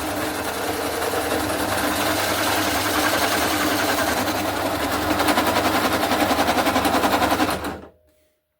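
MIG welder running a bead round a steel exhaust flange: a steady, dense crackling buzz that cuts off sharply near the end.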